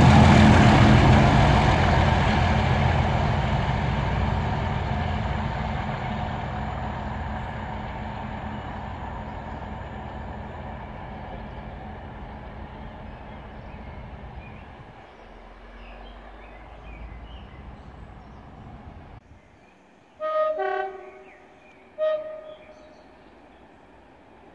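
A diesel train passing and pulling away, its engine and wheels fading steadily over about fifteen seconds. Then a train horn sounds twice: a two-note blast, then a shorter single note.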